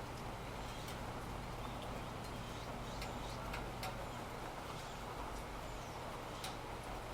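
Steady rain noise with a low hum underneath, broken by a few scattered sharp clicks or taps.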